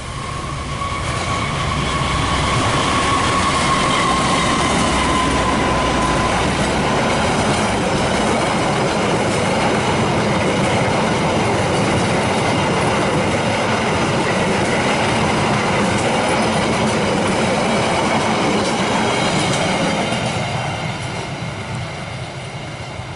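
Passenger train hauled by a CC 206 diesel-electric locomotive passing close by. A steady whine drops slightly in pitch about five seconds in, over the loud running noise of the train on the rails, which fades over the last few seconds.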